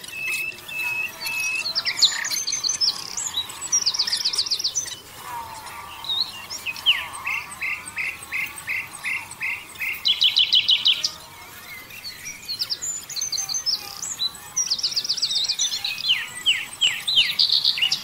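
Songbirds singing: bursts of fast, high trills and runs of short, evenly spaced chirps, in phrases with brief pauses between them.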